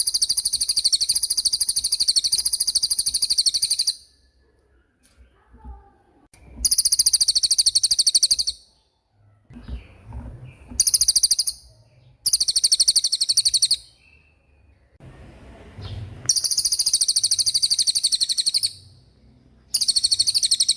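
Cililin bird singing its rolling song: long, very high-pitched rapid trills, about six phrases, each lasting one to four seconds with short pauses between them, and faint low knocks in the pauses.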